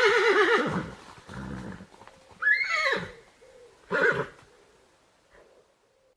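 A horse whinnying: a long call with a quavering, falling pitch, followed by a few shorter calls that fade out.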